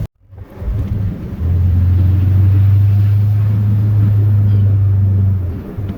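Chevrolet plow truck's 8.1-litre Vortec big-block gas V8 running under way, a loud steady low drone that strengthens about a second and a half in and eases off near the end, after a brief dropout at the start.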